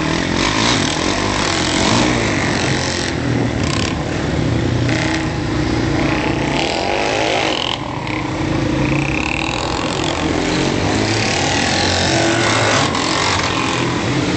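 Motorcycle engines running.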